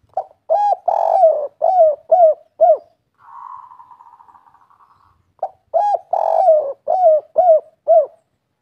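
Spotted dove (tekukur) cooing its 'kuk 3' song: two phrases of about six quick coos each, with a quieter buzzing rattle fading out between them.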